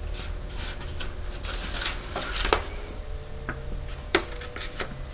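Rustling and light handling noises from objects being picked up and moved, with a couple of sharper clicks about two and a half and four seconds in, over a faint steady room hum.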